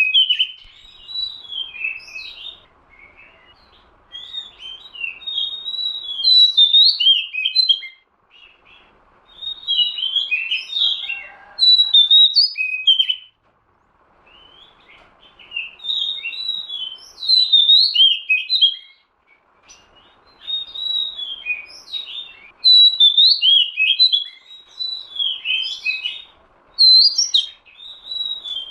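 Oriental magpie-robin (kacer) singing: loud, rapidly varied whistled notes in phrases a few seconds long, broken by short pauses.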